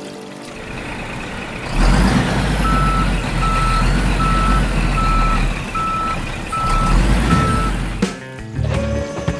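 Heavy truck engine running with a reversing alarm beeping seven times, roughly one beep every 0.8 seconds. Background music comes in near the end.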